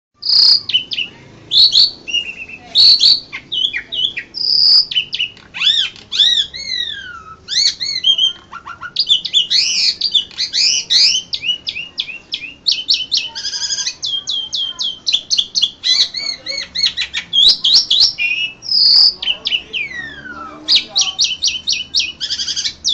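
A pied starling (jalak suren) singing a long, varied song of loud whistled notes and slurs. Fast runs of rapid repeated chattering notes come about halfway through and again near the end.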